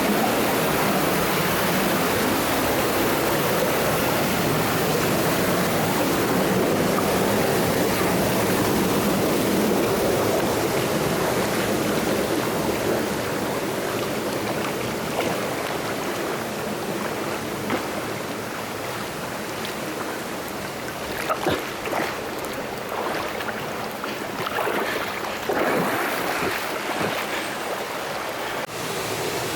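Steady rush of stream water through a narrow gorge, easing slightly about halfway through. In the second half, a run of short splashes as someone moves through the water.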